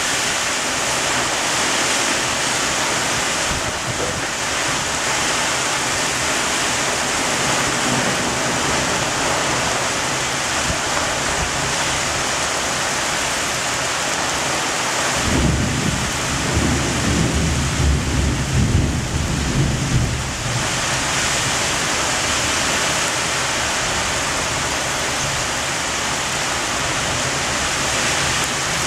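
Heavy rain pouring steadily in a thunderstorm. About halfway through, a deep rumble of thunder rolls for roughly five seconds.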